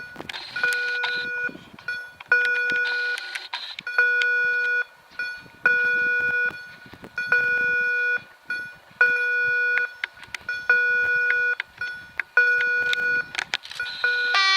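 Electronic level-crossing warning signal beeping: a steady buzzy tone, about a second on and half a second off, repeating evenly about eight times.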